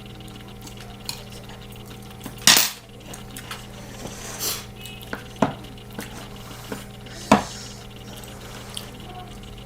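Eating utensils clinking against a ttukbaegi earthenware pot and bowl during a meal: a few separate sharp clinks, the loudest about two and a half seconds in, over a steady low hum.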